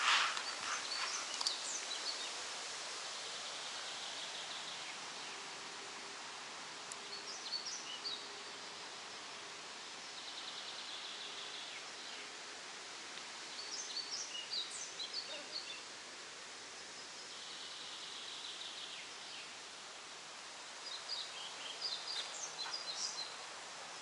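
Forest songbirds singing: short bright song phrases about every seven seconds, with a second bird's buzzy trill in the gaps between them, over a steady background hiss.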